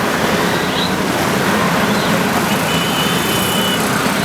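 Steady engine and street noise from vehicles or machinery, with a brief thin high tone for about a second near the end.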